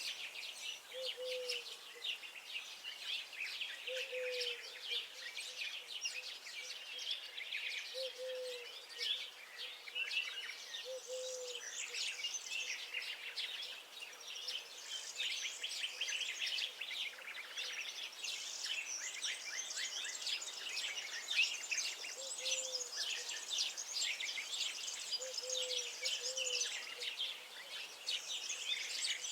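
Songbirds singing and chirping together in a dense chorus of quick high notes and trills, with a short low call repeating every few seconds.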